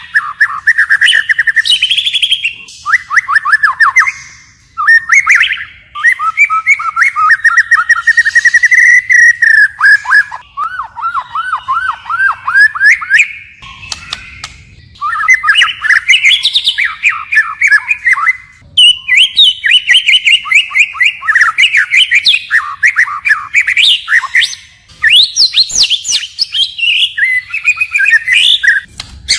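White-rumped shama singing loudly in a continuous stream of rapid trilled and whistled phrases, switching to a new phrase type every few seconds, with a few brief pauses.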